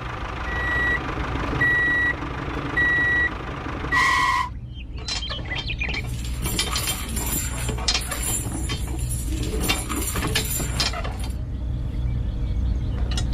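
A vehicle's reversing alarm beeps four times, evenly spaced, over a steady low motor hum. It is followed by several seconds of rattling, clattering machine noise.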